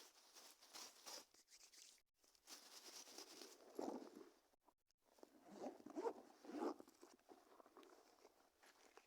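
Faint, irregular crinkly rustling and crunching close to the microphone, with a few louder clusters of crackles.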